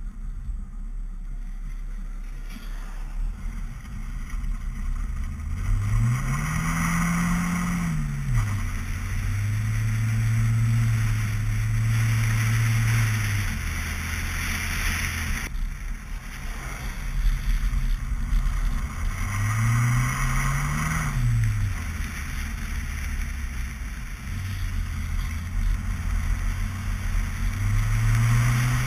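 Mazda Miata's four-cylinder engine revving up and back down three times, with steadier running between, over a constant rush of wind and tyres on a slushy road.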